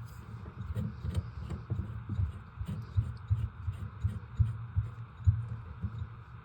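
Irregular low thuds and soft knocks, several a second, over a steady faint hiss.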